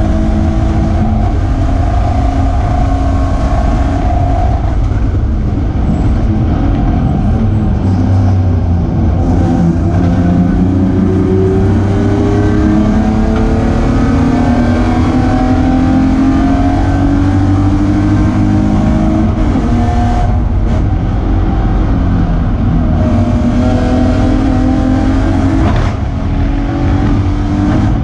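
BMW E36 Spec3 race car's straight-six engine running hard, heard from inside the stripped cabin. Its pitch climbs again and again with short breaks between climbs as the car accelerates through the gears, and the sound dips briefly near the end.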